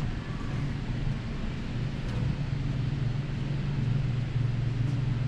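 A steady low mechanical hum, even throughout, with faint background noise and a few light ticks.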